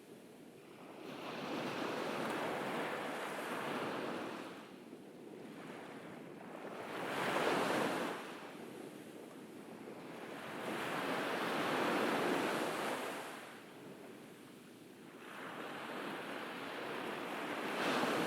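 Ocean surf breaking and washing up on a beach. Four waves swell and fade in turn, about every four to five seconds.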